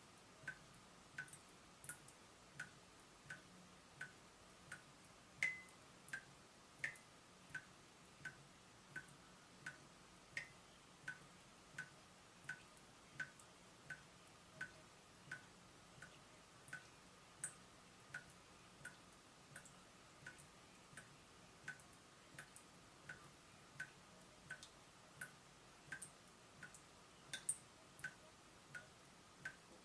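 Water dripping from a leaking tap in a steady, even rhythm, about three quiet plinking drops every two seconds. Now and then a drop lands with a brighter, higher plink.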